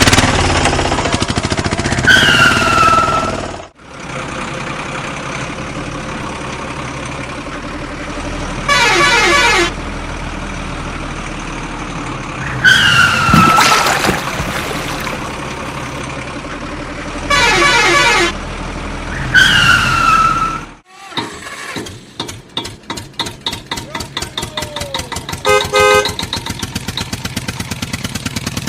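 Vehicle sound effects: a steady engine hum with short horn honks every few seconds, some falling in pitch. About two-thirds of the way in, the hum gives way to a fast, quickening engine pulse.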